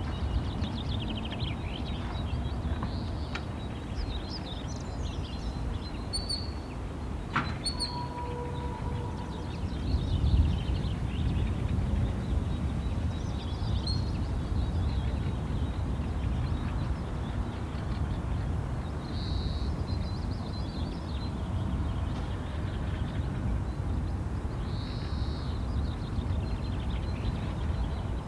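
Wild birds chirping in short scattered calls over a steady low outdoor rumble, which grows louder about ten seconds in. A sharp click is followed by a brief level whistle about eight seconds in.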